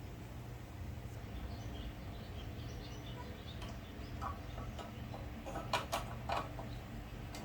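Light clicks and ticks of small metal parts being handled and fitted on a generator's carburetor linkage, with a short run of sharper clicks near the end, over a steady low hum.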